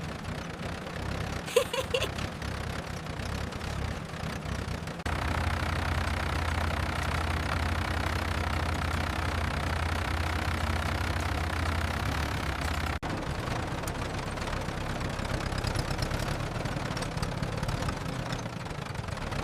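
Tractor engine running steadily. It gets louder abruptly about five seconds in and drops back just as abruptly about eight seconds later.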